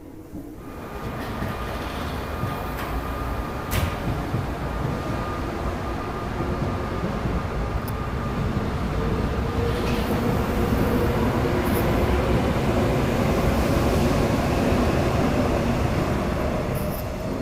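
Passenger train passing close by: a steady rumble of wheels on rail that builds about a second in and eases near the end, with a few sharp clicks.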